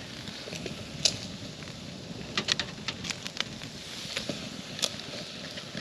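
Wood campfire crackling, with a steady low rush and scattered sharp pops, a cluster of them between about two and five seconds in.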